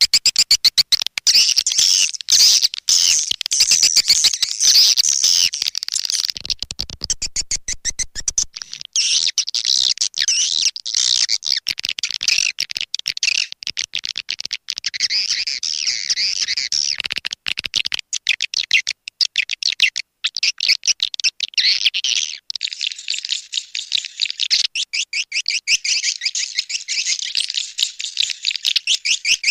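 Swiftlet call recording: a dense, unbroken chorus of rapid high chirps and twitters from many swiftlets. This is the kind of track played to lure swiftlets into a nesting house.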